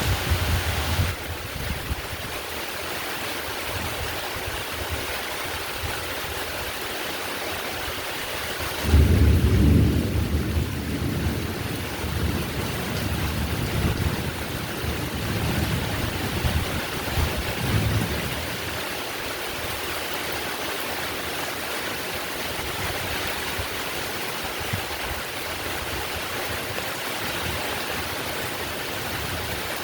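Steady heavy rain, with a roll of thunder that starts suddenly about a third of the way in and rumbles in waves for several seconds before fading.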